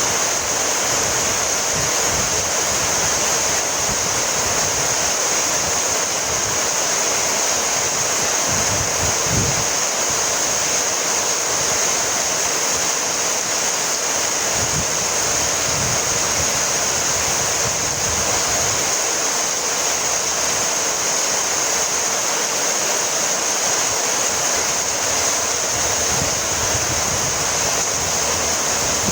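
Heavy rain falling steadily, an even hiss with a few brief low rumbles.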